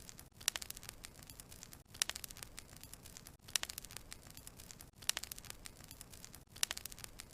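Wood fire crackling: clusters of sharp pops and snaps over a soft hiss, the same pattern repeating about every second and a half, each time after a brief break.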